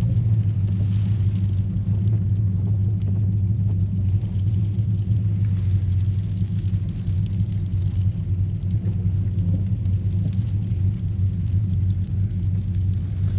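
Chevrolet Silverado pickup's engine running with a steady low hum, heard from inside the cab.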